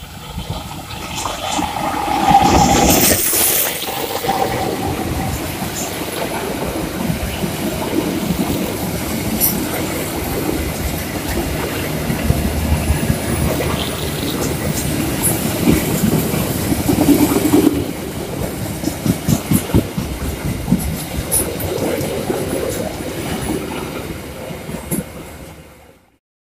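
Anjasmoro passenger train running on the line, its wheels clacking over the rail joints in quick runs. The sound cuts off suddenly near the end.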